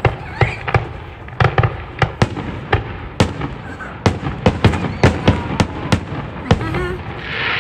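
Aerial fireworks shells bursting in rapid succession: a long string of sharp bangs, thickest in the middle, with a brief hiss near the end.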